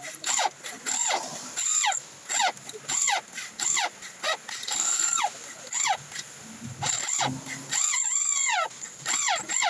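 Chickens clucking and squawking: a string of short calls that fall in pitch, one to two a second, with a longer arched squawk about eight seconds in.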